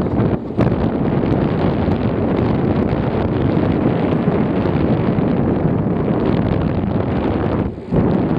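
Wind buffeting the microphone on a moving bicycle, a loud steady low noise that briefly drops away about half a second in and again near the end.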